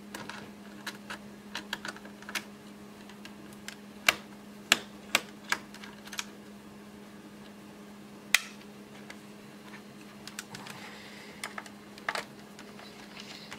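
Scattered sharp clicks and ticks of a screwdriver and small screws being worked out of a laptop's plastic base, with a few louder clicks near the middle. A steady low hum runs underneath.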